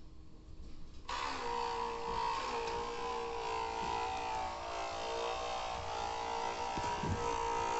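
Small electric motor of a model landing craft switching on about a second in and running with a steady buzzing whine.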